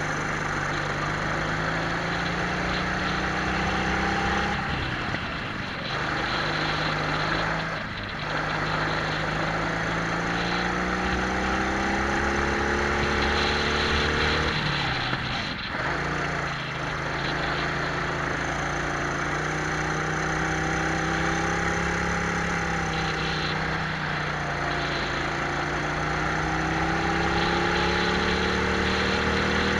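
Twin-engine Prokart's two-stroke engines at racing speed, heard onboard: the pitch climbs steadily along the straights and drops sharply for each corner, several times over.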